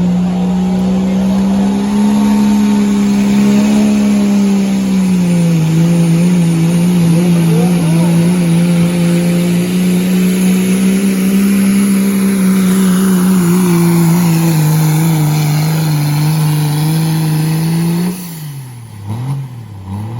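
Turbocharged diesel pickup engine held at high rpm, near-steady with slight dips, while pulling a weight sled. About 18 seconds in the throttle is cut and the engine drops sharply to a lower, wavering note as the pull ends.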